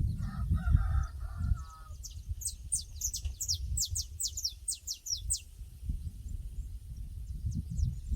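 A rooster crows once, a drawn-out call lasting about a second and a half. Then a small bird sings a quick run of about a dozen high, falling notes. A low, gusty rumble runs underneath the whole time.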